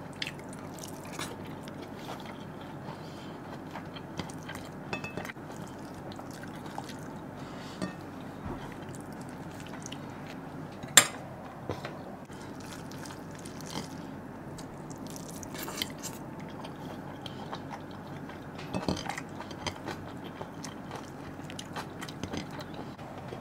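A person eating rice and chicken curry with their fingers: quiet chewing and small scattered clicks from the food and plate, with one sharp click about eleven seconds in.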